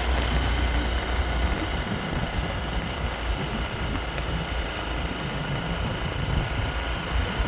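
Monkey bike's small motorbike engine running steadily while riding, with a continuous low rumble.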